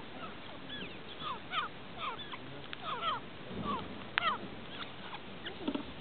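Birds chirping: a quick series of short, faint, downward-sliding chirps, several a second at times, over a steady hiss.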